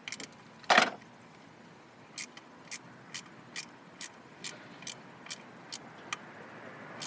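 A ratchet clicking at about two clicks a second as the screws holding an ignition rotor onto a distributor are tightened, with one louder knock about a second in.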